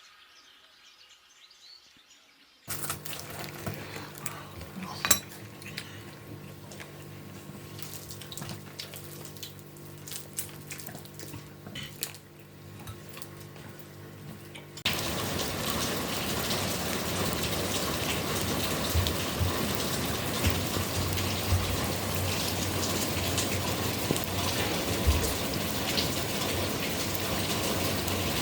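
Scattered clinks and knocks of dishes and utensils over a low steady hum, then from about halfway a steady, even rush of water that carries on.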